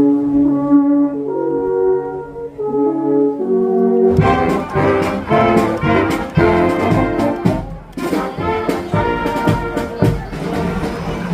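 Brass band playing: held brass chords for about four seconds, then a rhythmic tune with drum beats.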